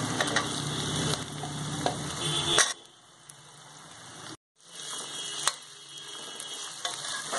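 Onions sizzling in hot mustard oil in a steel wok, with a metal spatula scraping and clicking against the pan. A little under three seconds in the sizzle drops away sharply and briefly cuts out. It then returns with more spatula clicks as cubes of potato and raw papaya are stirred into the oil.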